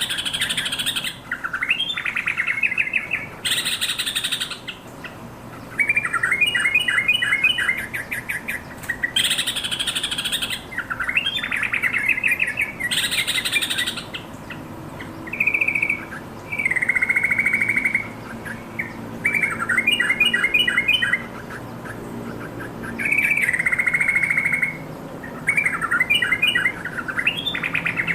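Yellow-vented bulbul singing: short, bubbly chattering phrases of quick notes, repeated every couple of seconds, with a few harsh, scratchy calls in between.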